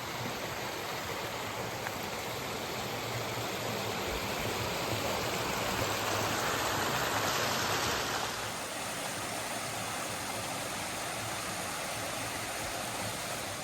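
Steady rush of flowing water from a stream, swelling a little louder in the middle before easing back, then cut off abruptly at the end.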